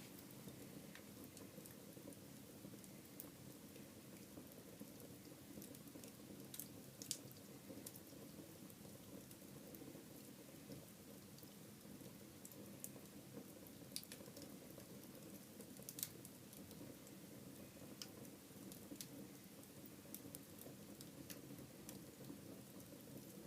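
Wood fire burning quietly in a fireplace: a faint steady rush of flame with sparse sharp crackles and pops every few seconds.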